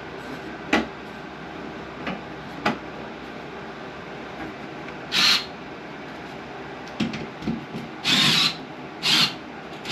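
Tool work: a few sharp clicks, then several short bursts of harsh rasping noise, each about half a second long, with the two loudest bursts near the end.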